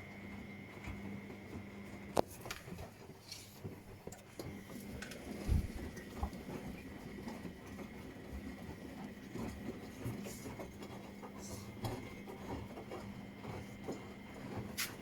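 Washing machine running a wash cycle: a steady motor hum cuts off with a click about two seconds in, followed by scattered light knocks and patter and one dull thump, and the hum starts again with a click near the end.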